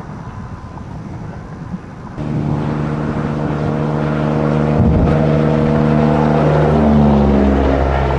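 A rumbling rush for about two seconds, then a loud, steady low drone made of several tones, with a thump near the middle and a shift in pitch near the end.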